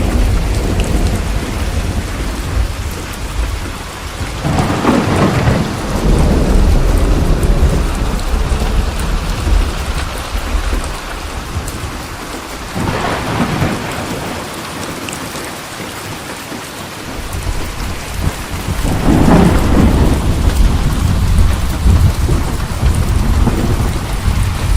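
Steady heavy rain with rolling thunder: three long rumbles swell and fade, about five seconds in, near the middle and again near the end.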